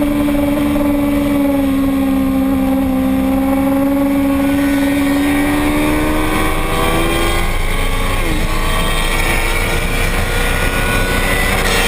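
Racing motorcycle engine running hard on track, its pitch sagging slowly and then climbing again after about six seconds, over a steady low rumble.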